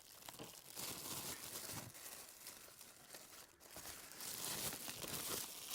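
Food sizzling on a barbecue hot plate, pineapple among it, with the gas turned off and the plate cooking on its stored heat: an irregular crackling hiss that swells and fades.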